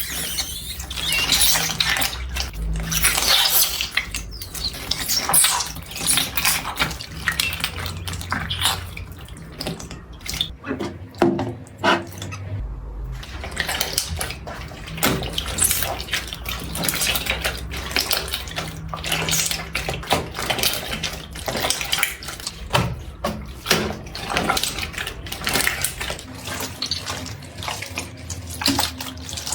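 Slime being worked by hand, giving dense, irregular wet clicks, crackles and squelches, with a short lull about eleven seconds in.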